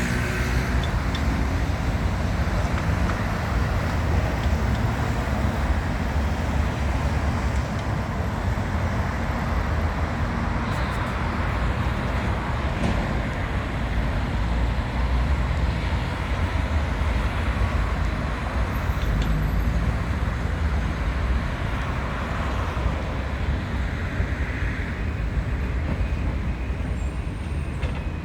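Steady city street traffic: cars and heavier vehicles such as buses and trucks running past, with a continuous low rumble.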